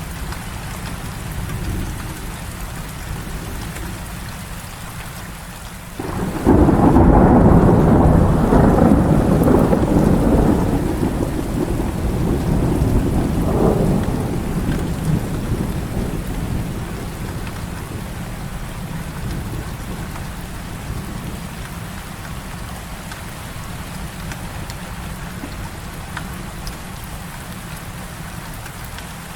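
Heavy rain falling steadily. A little over six seconds in, thunder breaks in suddenly as a loud rumble, swells once more a few seconds later, then slowly dies away under the rain.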